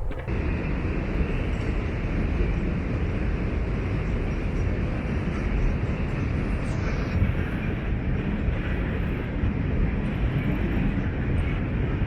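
Steady rushing wind-and-motion noise on a small handheld camera's microphone, heaviest in the low end and holding level throughout.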